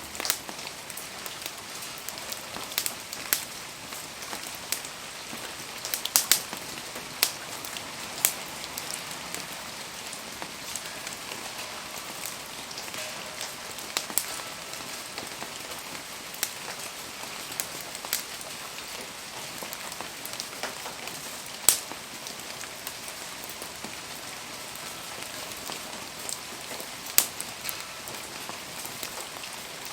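Steady rain falling, an even hiss, with scattered sharp pops and crackles from a wood campfire burning in it; the loudest pop comes about two-thirds of the way through.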